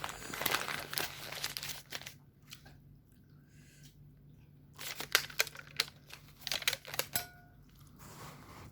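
Food wrapping being crumpled and crinkled by hand, in two spells: a dense rustle for about the first two seconds, then sharper crackles from about five to seven seconds in.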